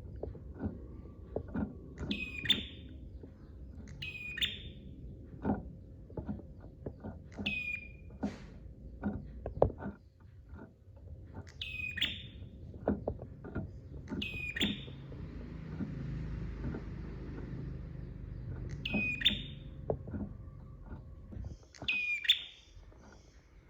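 Prinia (prenjak) song: a short, sharp high call that drops quickly in pitch, repeated roughly every two seconds. Scattered clicks and a low background rumble run beneath it.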